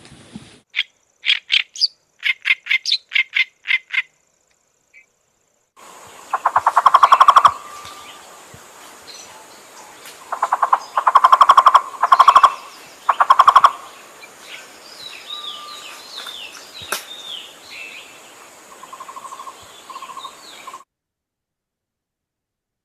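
Recorded calls of Cuban wildlife played back. First comes a run of about eight quick, high chirps. After a pause, a second recording over a steady hiss has loud, rapid trills repeated several times and softer whistled bird calls that slide down in pitch.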